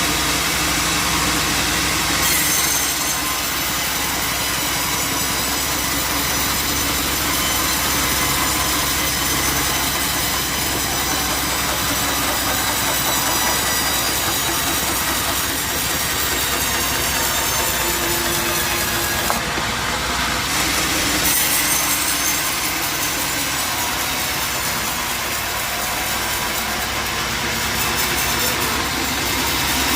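Band sawmill cutting through a jackfruit log: a continuous steady sawing sound from the blade and machinery, with faint high tones over a dense rasp.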